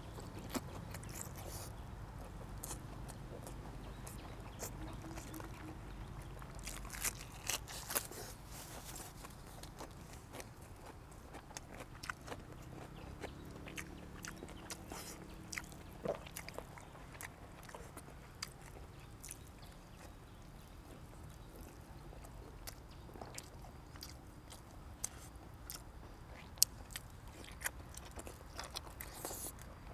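A man eating close to the microphone: chewing with irregular sharp crunchy bites, from boiled pork and crisp raw vegetables. The loudest crunch comes near the end.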